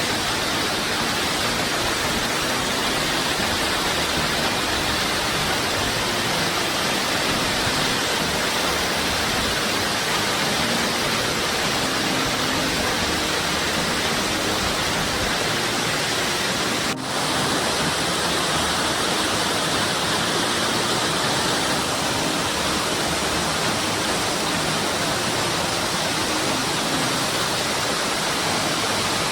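Waterfall rushing: a steady, even noise of falling water, with a brief break about seventeen seconds in.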